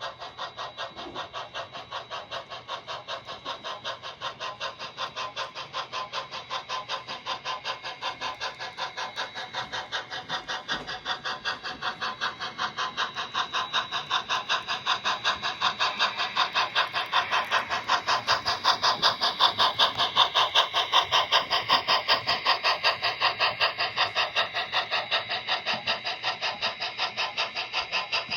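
Model steam locomotive chuffing in a fast, even beat of hissy puffs, getting louder over the first two-thirds and then holding steady.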